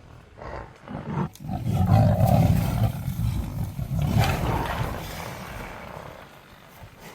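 Lions growling loudly and deeply over a buffalo, loudest from about two to five seconds in, then dying down.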